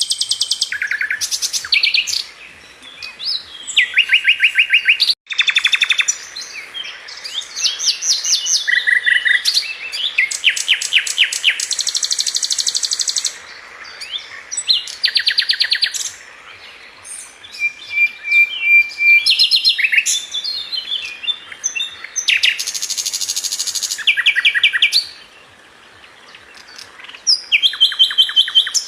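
Sikatan London flycatcher singing: bursts of fast, high-pitched trills and chattering phrases of rapidly repeated notes, with short pauses between them.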